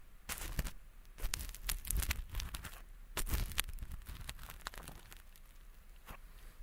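Ear pick scraping and scratching close against a microphone's ear, making irregular crackly scrapes and clicks, as if flaking away thin, skin-like earwax. The scratches come thicker in the first half and thin out toward the end.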